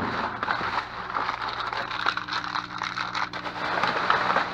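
Plastic bags and candy packaging crinkling and rustling as they are handled and sorted, made up of many small crackles and scrapes over a steady low hum.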